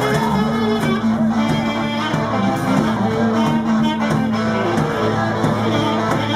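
Live blues band playing an instrumental passage: guitar over bass and drums, with a steady beat and sustained held notes.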